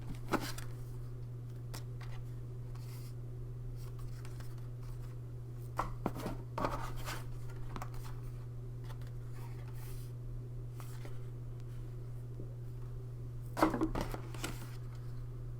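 Cardboard board-game dashboards being handled and set down: a few brief rustles and taps over a steady low hum.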